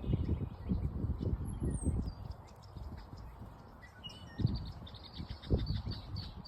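Ducklings peeping in short, high, falling chirps, most thickly in the second half. Low rumbling thuds on the microphone come mostly in the first two seconds.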